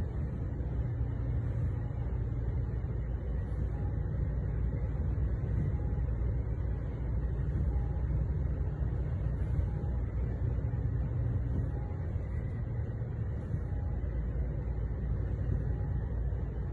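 Steady low engine and road rumble of a truck driving along, with a faint short beep about every two seconds.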